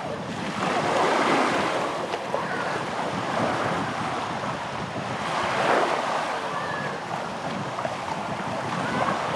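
Sea waves washing in on a sandy beach, a steady rushing that swells about a second in and again around six seconds.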